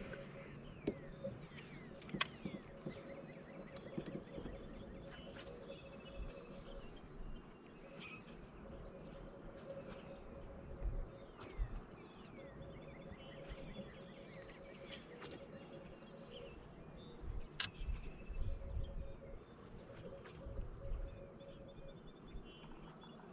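Birds chirping and singing in the open air, over a faint on-and-off hum, with scattered sharp clicks and a few low bumps.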